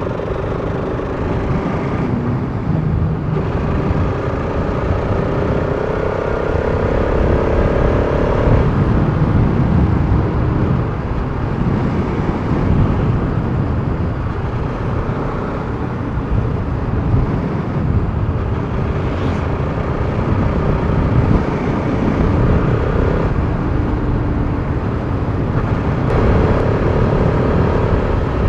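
Bajaj Pulsar RS200's single-cylinder engine running while riding, with a low wind rumble on the microphone. The engine note climbs gently as it pulls, around four to eight seconds in and again near the end.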